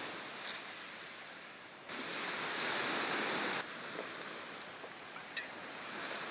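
Steady rushing noise of sea water and wind. A louder stretch of the same rush comes in abruptly about two seconds in and cuts off sharply near the four-second mark.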